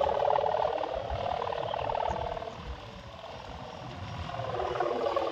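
Strong wind buffeting the microphone, with a buzzing drone that fades about halfway through and swells back near the end.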